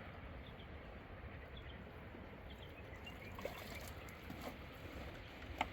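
Steady rush of flowing river water, with a few faint high chirps in the first few seconds and a sharp click just before the end.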